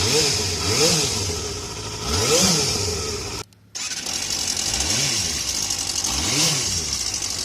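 Yamaha FZR250R's 250cc inline-four motorcycle engine being blipped: about five quick revs that each rise and fall in pitch, with a brief break about three and a half seconds in.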